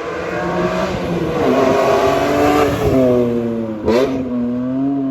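BMW E46 M3's S54 straight-six running through a Valvetronic Designs valved sport exhaust, its pitch rising and falling with throttle as the car is driven, with a sharp click about four seconds in.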